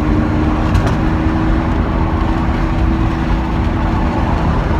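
Lamborghini Aventador SV's V12 engine running at a steady pitch while driving, a constant hum under road noise.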